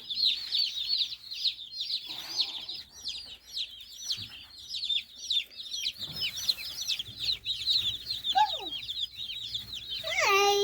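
A crowd of day-old chicks peeping nonstop, many short, high cheeps overlapping.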